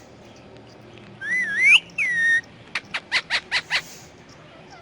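Pet parrot whistling a couple of gliding, rising-and-falling notes, then giving six short, sharp calls in quick succession.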